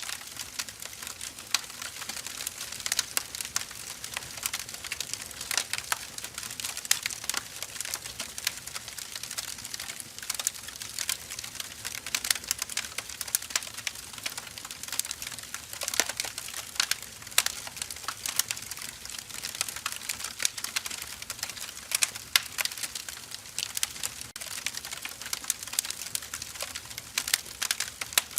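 Burning firewood crackling steadily, a dense run of small snaps with frequent sharper pops throughout.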